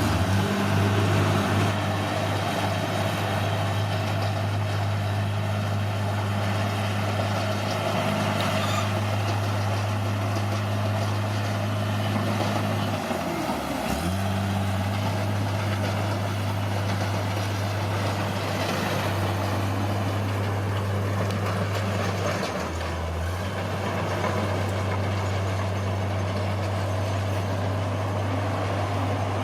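Bulldozer's diesel engine running steadily with a deep drone, its pitch dipping and recovering about halfway through and dropping briefly again near the three-quarter mark.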